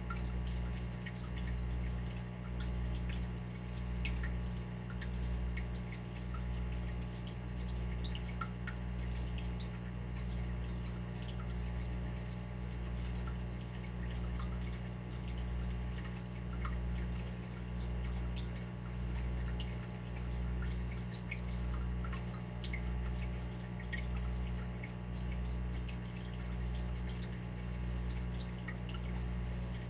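Water dripping and trickling, with many small scattered drops. Under it runs a steady low hum that swells and fades about once a second.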